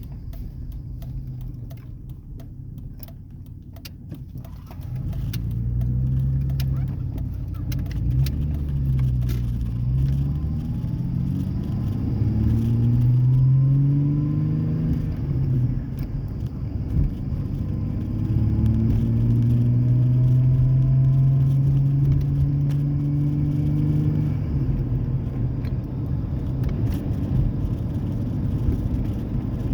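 Exhaust of a 2003 Ford Ranger's 4.0L V6, muffler deleted with four catalytic converters still on, heard accelerating through the gears. The note climbs, drops back at shifts about ten and fifteen seconds in, holds steady at cruise, then eases off near the end.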